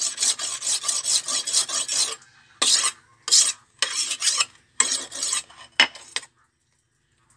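Kitchen knife being sharpened on a whetstone: quick strokes of the blade across the stone, about five a second for the first two seconds, then slower separate strokes that stop about six seconds in.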